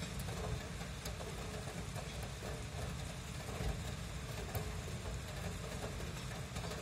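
Steady hiss of heavy rain over a city, with a low hum of distant street traffic underneath.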